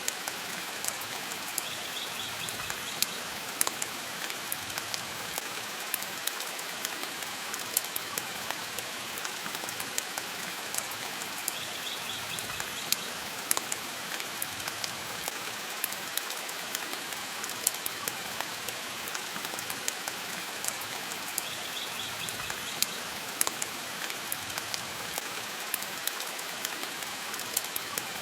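Steady rain hissing, mixed with frequent sharp pops and crackles from a wood fire in a fireplace. A faint short high sound recurs about every ten seconds.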